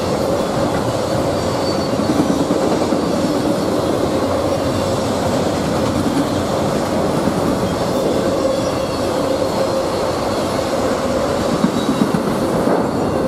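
Freight train of autorack cars rolling past at speed: a loud, steady rumble of steel wheels on rail with a constant ringing tone over it.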